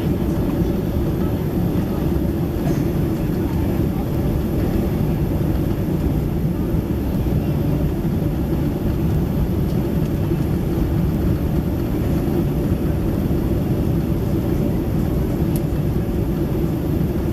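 Steady low roar inside the cabin of a Boeing 767-300ER airliner in flight: engine and airflow noise at an even level, with no changes.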